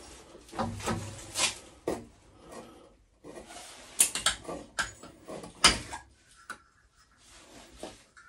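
Plumbing parts and tools being handled: a run of knocks, clicks and rubs, the sharpest about four to six seconds in.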